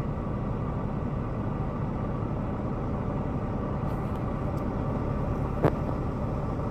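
Semi truck's engine running, a steady low drone heard from inside the cab, with one short click late on.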